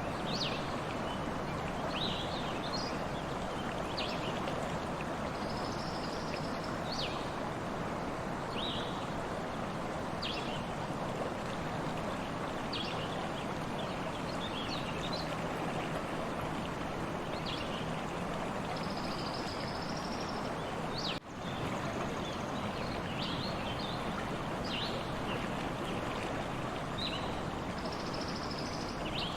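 A stream flowing steadily, with short bird chirps and calls scattered over the water sound. The sound cuts out for an instant about two-thirds of the way through.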